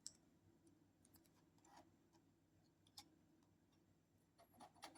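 Near silence: room tone with a few faint, isolated clicks, one right at the start and another about three seconds in.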